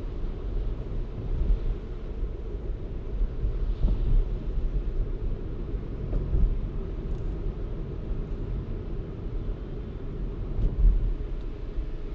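A car driving on city streets: steady low road and engine rumble with small swells in loudness.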